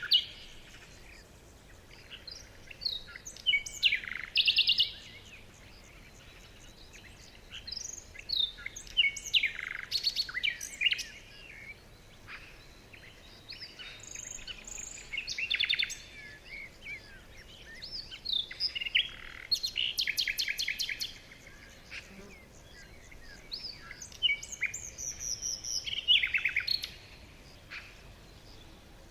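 Several songbirds singing and chirping: bursts of short chirps, rapid trills and whistled phrases every few seconds, with short quiet gaps between.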